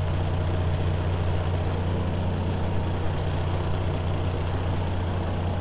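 Peterbilt 379 dump truck's diesel engine idling steadily while it waits to be loaded.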